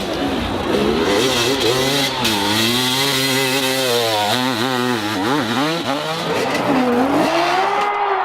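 Dirt bike engine revving hard on a steep hill climb, its pitch rising and falling again and again as the throttle is worked, with quick drops and recoveries about halfway through.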